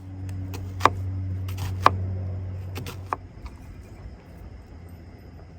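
A low, steady engine hum, such as a vehicle nearby, that fades out after about three seconds, with three sharp clinks about a second apart, like a utensil knocking a cooking pot.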